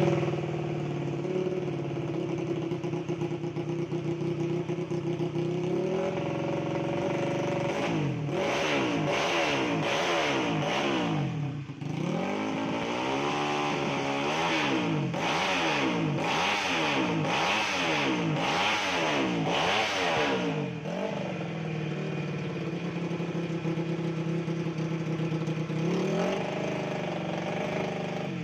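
Yamaha Mio scooter's single-cylinder four-stroke engine, tuned and bored up to 130 cc, idling, then blipped through repeated quick revs, about one a second, for some twelve seconds before dropping back to idle.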